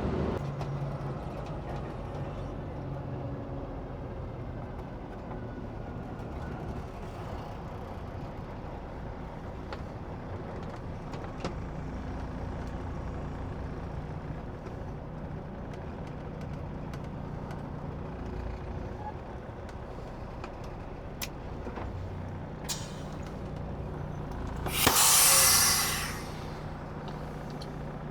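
Semi-trailer truck's diesel engine running low and steady, with a few light clicks. About 25 seconds in comes a loud hiss of air lasting about a second: the air brakes being set as the truck pulls up.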